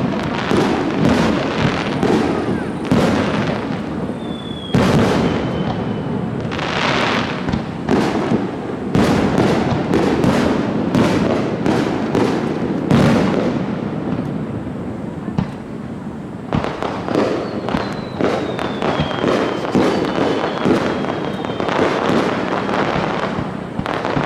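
Fireworks display: a dense run of rapid bursts and crackling, with a few thin whistles in between.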